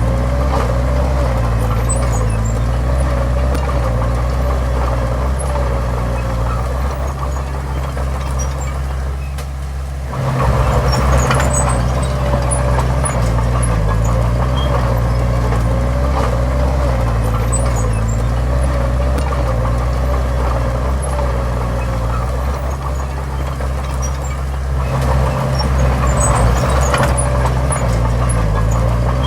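Heavy diesel engine of earthmoving machinery running steadily under load. It eases off briefly and then picks up sharply about ten seconds in, and does the same again about three quarters of the way through.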